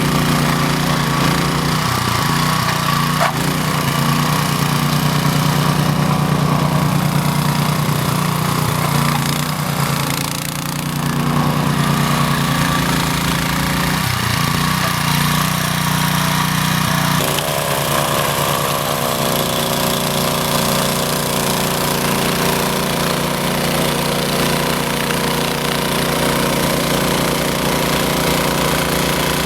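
Honda snowblower engine running steadily while clearing deep snow, with a brief dip in level about ten seconds in and a change in its tone a little past halfway.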